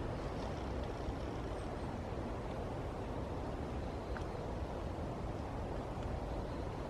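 Steady low rumble of distant road traffic, an even wash of noise with no distinct passing vehicle.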